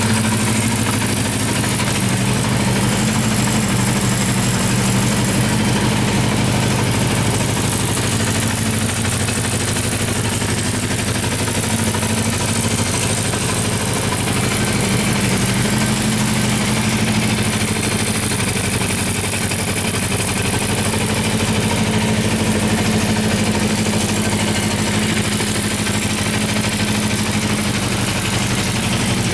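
Honda CB400 Four's 408 cc air-cooled inline-four engine idling steadily.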